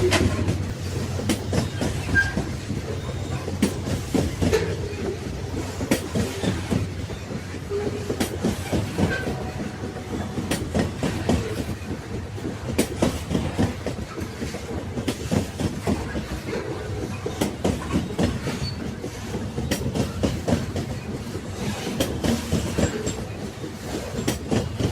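Railway wagons running along the track: a steady low rumble with many sharp knocks from the wheels passing over the rails.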